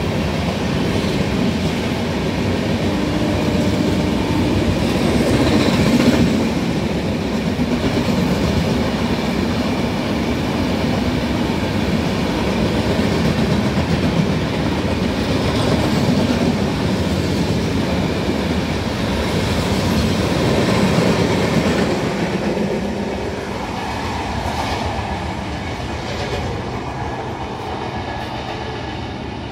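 Indian Railways passenger train passing through at speed: the coaches' wheels run steadily over the rails. The sound eases over the last several seconds as the train draws away.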